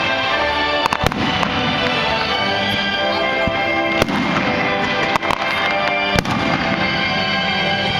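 Fireworks going off over loud show music, with several sharp bangs standing out from the music.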